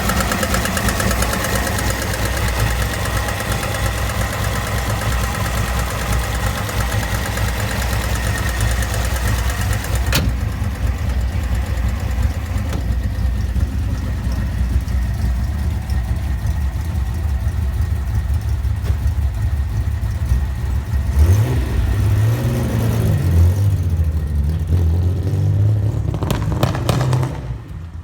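Nissan S30 Z's L30 (3.0-litre L-series) straight-six on Solex carburettors running steadily. There is a sharp click about ten seconds in. From about two-thirds of the way through, the engine is blipped up and down several times, then it cuts off just before the end.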